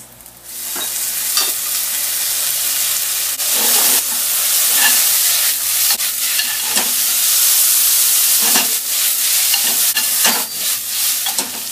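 Yakisoba noodles frying in a hot pan with Napolitan sauce just poured in: a loud sizzle that starts about half a second in, with the noodles stirred and the pan tossed now and then.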